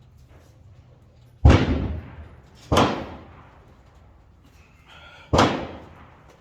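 Three rifle shots with the crack trailing off in a short echo. The first, about a second and a half in, is the loudest; the other two follow about one and two and a half seconds later.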